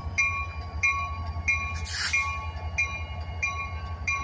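Diesel locomotives rumbling steadily with a bell ringing evenly, about one and a half strokes a second, and a short hiss about two seconds in.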